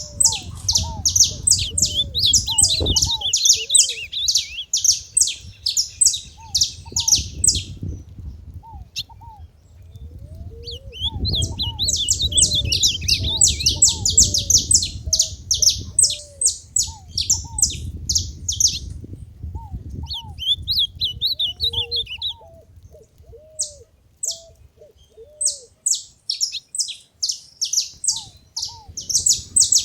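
A group of saffron finches chirping in rapid, dense bursts of high notes, with short pauses between bouts. There are lower, short curved notes underneath and a low rumble.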